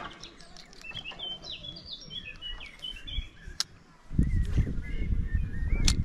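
Songbirds singing a run of quick high chirps and warbles. About four seconds in, a loud low rumble comes in under the birdsong, with a sharp click near the end.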